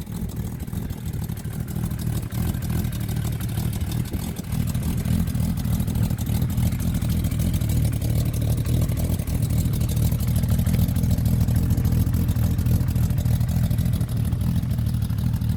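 Kawasaki KZ1300's inline-six engine running steadily through a new Delkevic 6-into-1 exhaust, getting a little louder about four seconds in.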